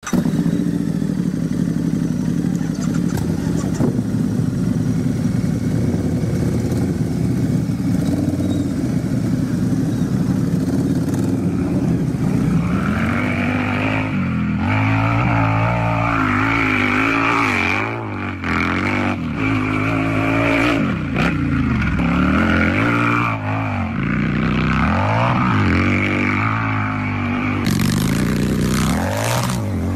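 Harley-Davidson Shovelhead V-twin motorcycle engine idling steadily. After about twelve seconds it is revved over and over in short throttle blips, the pitch rising and falling every second or two.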